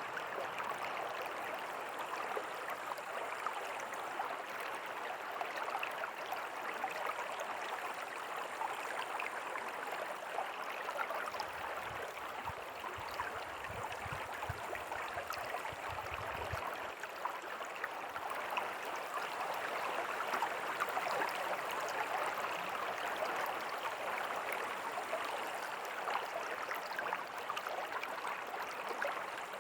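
River water flowing, a steady, even rush. A low rumble joins it for a few seconds about halfway through.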